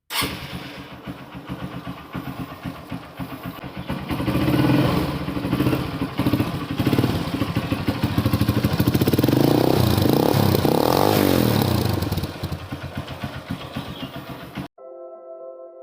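Honda CB Unicorn 150's single-cylinder engine running through an aftermarket Akrapovic exhaust and being revved: a rise about four seconds in, higher revs from about seven to twelve seconds, then it drops back and cuts off suddenly near the end.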